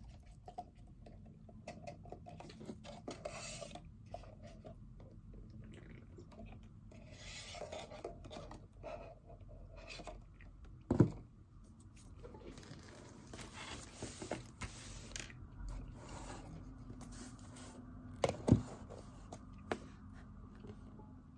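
Pen writing on paper, scratching in several short stretches, with two sharp knocks on the desk, one about halfway through and a louder one near the end.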